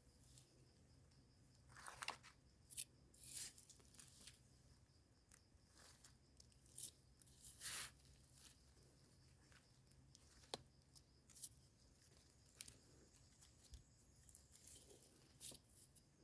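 Faint, scattered short rustles and snaps as termite mushrooms are pulled from the soil and handled among dry leaves.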